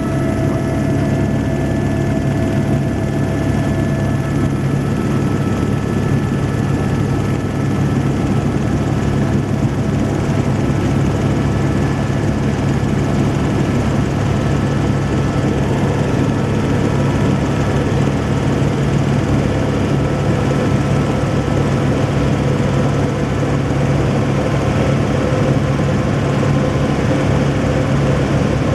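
Helicopter in flight heard from inside the cabin: loud, steady rotor and engine noise with a low drone and a few faint steady whining tones above it, one of which fades out about four seconds in.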